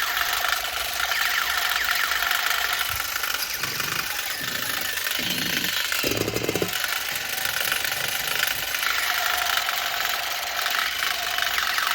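Small motor in a battery-powered toy running with a fast, steady rattle. A few short lower sounds come in near the middle.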